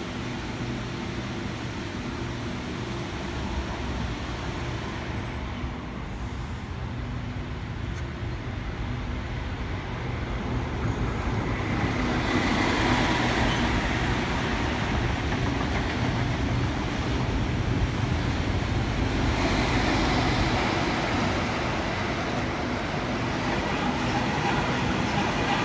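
Sydney electric double-deck suburban trains running through the station: a steady rumble of wheels and motors on the rails that swells about eleven seconds in as a train passes close by and stays loud.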